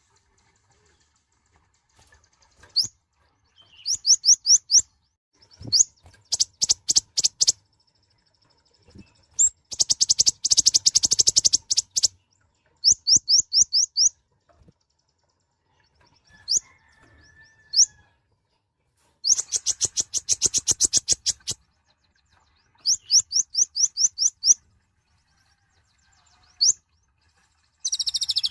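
Kolibri ninja (konin), a small sunbird, singing: bursts of rapid high-pitched chirping notes with short pauses between them. A fast, continuous trill begins near the end.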